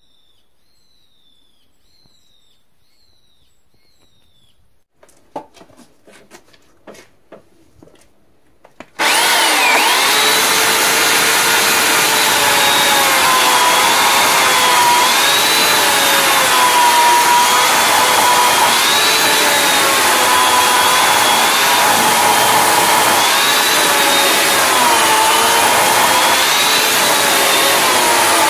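Faint bird chirps, then a few knocks. About nine seconds in, a loud chainsaw cuts in and runs steadily, its pitch dipping and recovering every few seconds as it cuts into wood.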